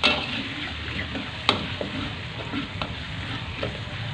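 Ground spice paste sizzling in a little hot oil in a wok as it is stir-fried until fragrant, with a spatula scraping and knocking against the pan a few times, one sharper knock about a second and a half in.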